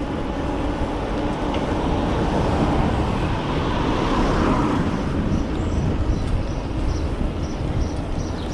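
Steady wind and road noise on the action camera's microphone while riding an e-bike along a road, with a car passing about three to five seconds in. Faint, evenly spaced ticking comes in near the end.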